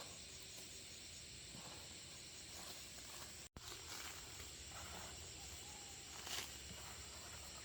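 Faint outdoor ambience: a steady hiss with a few faint short sounds, one a little louder about six seconds in, and a sudden drop-out about three and a half seconds in.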